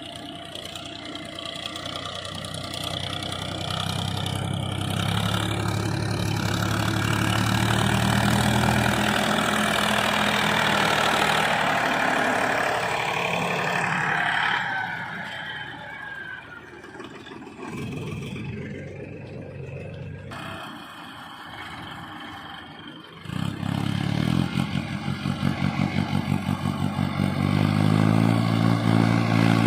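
Tractor diesel engine running, growing louder over the first ten seconds, then falling back for a while. About three-quarters of the way through it comes in suddenly loud, pulsing at first, then settles into a steady heavy run.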